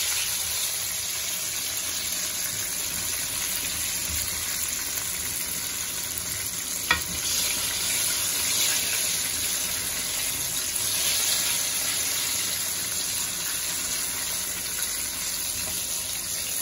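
Cornstarch-coated eggplant pieces deep-frying in hot oil in a wok, giving a steady sizzle as a metal spoon stirs them. One sharp click about seven seconds in.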